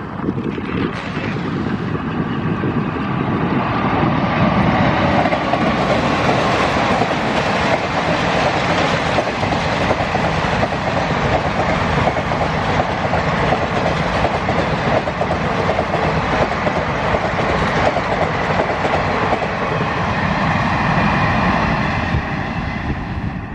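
A train running past at speed, its wheels clattering rapidly over the rail joints. The sound builds over the first few seconds, holds steady, and drops away at the end.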